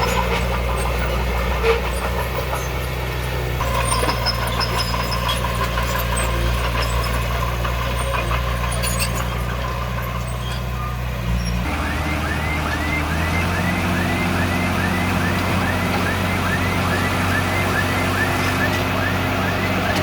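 Heavy diesel earthmoving machinery running steadily. About twelve seconds in the engine note changes, and a short, high rising chirp begins repeating about twice a second.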